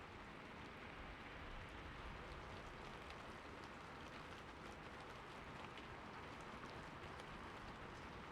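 Soft, steady rain with many small drops ticking on a surface.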